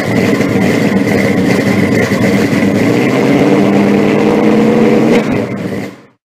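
Car engine running, with steady stacked tones, fading out near the end.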